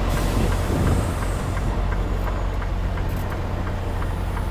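Semi-truck's diesel engine running steadily at low speed, heard from inside the cab while the tractor-trailer is being backed toward a dock.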